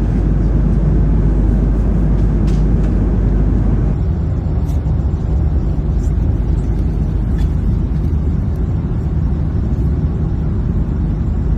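Steady low rumble of a vehicle in motion, heard from inside it; about four seconds in the rumble changes character and then runs on evenly.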